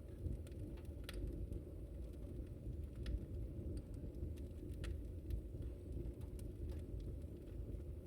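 A wood fire burning: a steady low rumble of flames with sharp crackles and pops about once a second.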